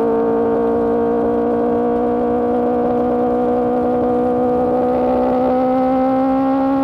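Sportbike engine breathing through an Austin Racing GP1R exhaust, holding a steady high-revving drone under way, its pitch creeping slowly upward as the bike gently accelerates.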